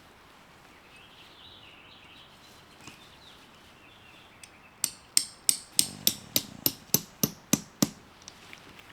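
A stake, most likely a tent stake, hammered in with a quick, even run of about eleven strikes, roughly three a second, starting about five seconds in.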